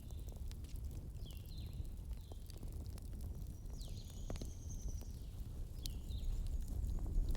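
Campfire crackling with scattered sharp pops over a low rumble, while a bird gives short chirps that drop in pitch, several times over.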